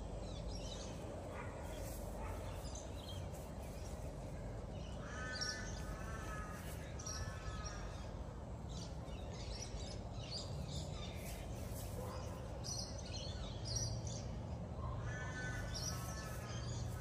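A bird calling outdoors in two bouts of about four repeated calls each, about five seconds in and again near the end, over a steady low background hum, with faint high chirps scattered through.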